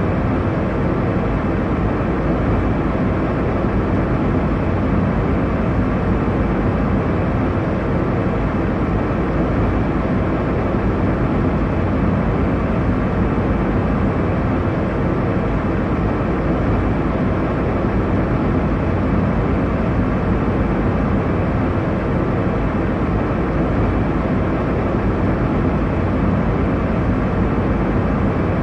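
Airliner cabin noise in cruise: a steady, even rumble and rush of engine and airflow, strongest in the low end, with no changes.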